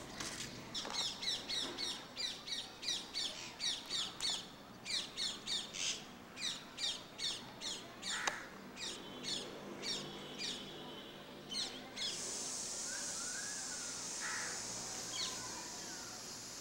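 A bird calling over and over in quick, high chirps that sweep downward in pitch, two or three a second, stopping about twelve seconds in. A steady high hiss carries on after the chirps stop.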